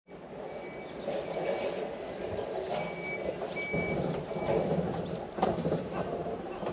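A short, high, steady-pitched beep repeating about every 0.8 seconds, like a vehicle's reversing alarm, over a steady low rumble of outdoor background noise.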